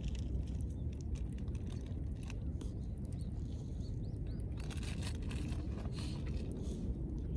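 Wood fire crackling, with many small irregular pops over a steady low rush.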